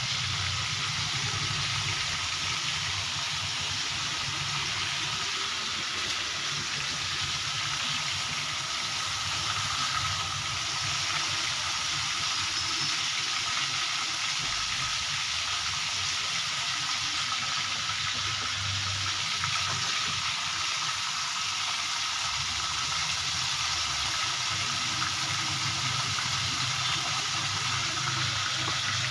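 Chicken pieces frying in hot oil in a steel kadai, a steady sizzle while they are turned with a metal slotted spoon.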